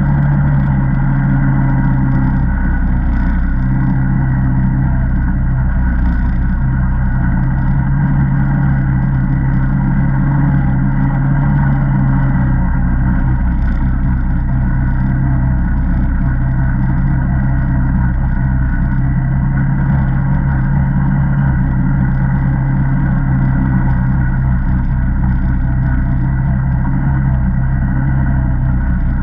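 ATV's single-cylinder engine running steadily under way, its pitch holding nearly constant with little change in speed.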